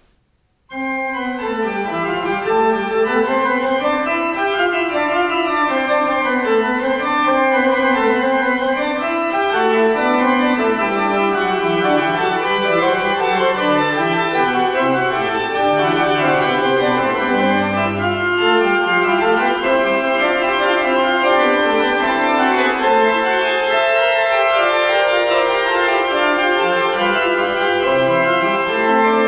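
Organ music starting suddenly less than a second in, sustained chords over a slowly moving bass line.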